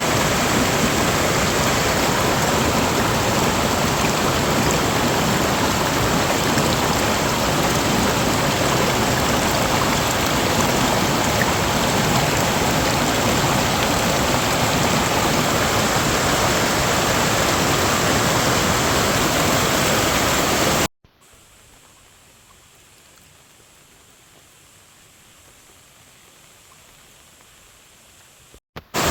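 Loud, steady rushing of water. It cuts off abruptly about 21 seconds in to a much quieter hiss and comes back just as suddenly near the end.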